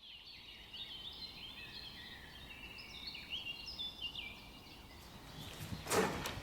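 Small birds chirping and twittering, many short high notes, for the first four seconds or so, then a loud knock or rustle near the end.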